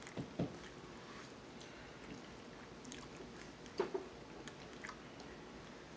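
Faint chewing of a person eating pork ribs, with a few soft mouth clicks near the start and about four and five seconds in.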